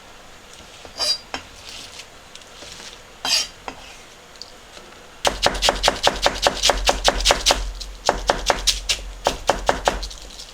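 Kitchen knife chopping fast on a cutting board, about four to five strokes a second with a dull thud under each, pausing briefly partway and going on again; two single knocks come first.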